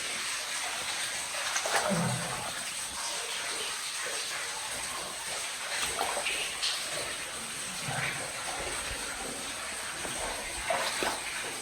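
Cave water trickling and splashing in a steady hiss, with a few short knocks and scrapes.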